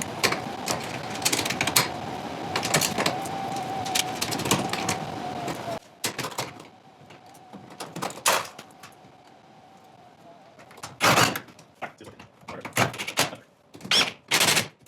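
A power drill/driver runs steadily with a whine for about six seconds, then runs again more faintly, as garage-door locking hardware is fastened on. Several sharp metal clicks and knocks follow near the end.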